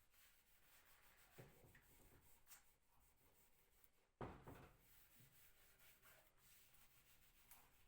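Faint rubbing on wood, with a couple of soft knocks, the clearest about four seconds in.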